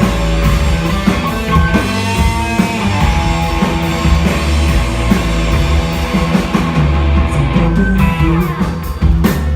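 Rock band playing live through an instrumental passage: guitar and drum kit over a heavy bass line. There is a brief drop in loudness shortly before the end, followed by sharp drum hits.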